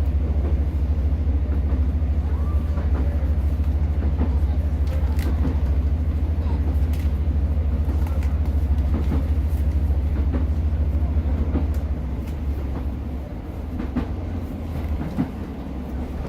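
Class 150 diesel multiple unit heard from on board: a steady low drone of the underfloor diesel engine and running gear, with scattered small clicks and rattles. About twelve seconds in, the drone drops to a quieter level as the engine eases off.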